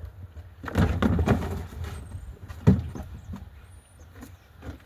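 Handling noise as the camera is set back up: rustling and clatter, with several clicks and one sharp knock about two and a half seconds in.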